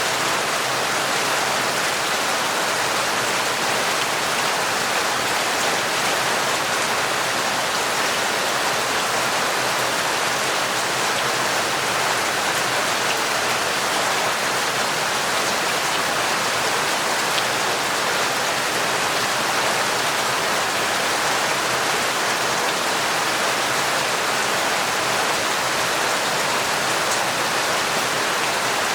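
Torrential rain falling steadily, an even unbroken hiss of countless drops.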